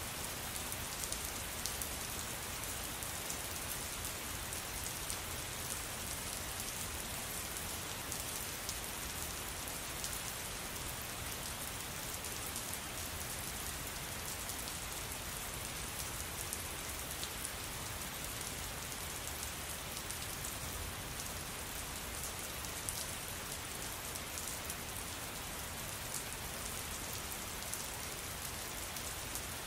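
Steady rain falling on a surface, a continuous hiss dotted with many fine drop ticks, with no thunder.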